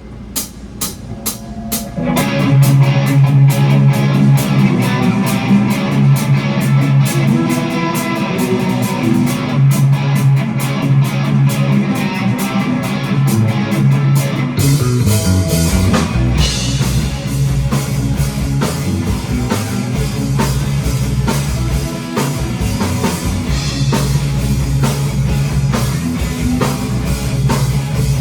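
Live rock band starting a song with no vocals yet. A few sharp clicks count it in, then about two seconds in the full band enters with electric guitar, bass and drum kit. Around the middle the bass slides down and the band moves into a busier section with more cymbals.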